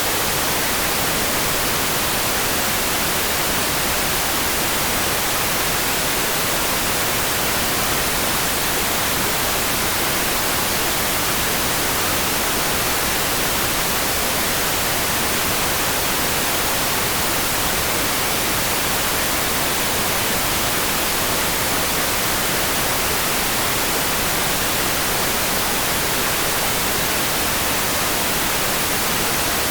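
Steady rain, heard as an even, unbroken hiss with no separate drops, thunder or changes.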